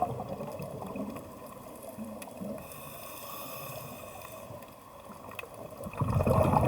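Moving water, trickling and gurgling, that fades down through the middle and swells louder again about six seconds in.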